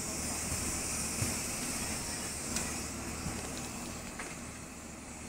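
Airliner cabin ambience: the steady hiss of the cabin air ventilation over a low hum, with a few faint clicks.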